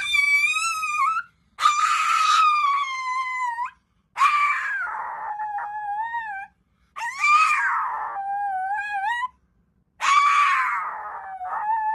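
A dog giving five long, high-pitched howling cries, each held for a couple of seconds, with short pauses between them.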